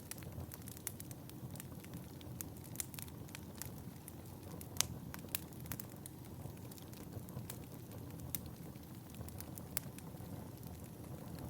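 Wood fire in a fireplace crackling: a steady low noise of burning with frequent sharp pops and snaps, one louder pop about five seconds in.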